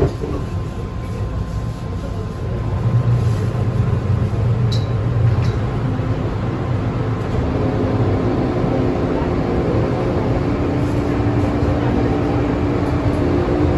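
Hong Kong MTR M-train heard from inside the carriage: a sharp knock at the start, then a steady deep running rumble. About halfway in, a whine from the traction equipment sets in and rises slowly in pitch as the train picks up speed.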